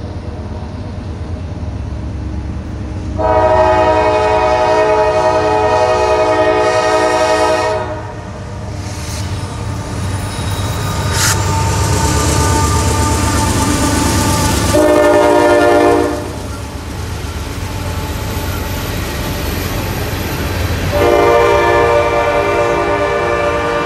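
Norfolk Southern diesel locomotive passing at the head of a grain train, its engine rumbling steadily while the air horn sounds three times: a long blast a few seconds in, a short one past the middle, and another long one near the end. Covered hopper cars roll past behind it.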